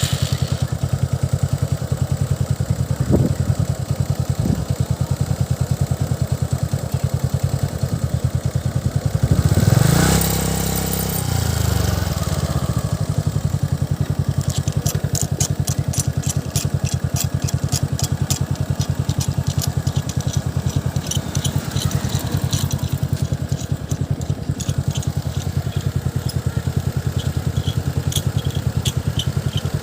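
Motorcycle engine idling steadily, revved once about a third of the way in, the pitch rising and then falling back to idle. A fast high clicking joins about halfway through.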